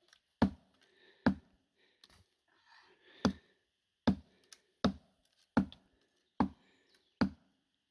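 About eight sharp chopping strikes of a blade into wood, roughly one a second with a pause near the start. The strikes are cutting into resin-rich fatwood.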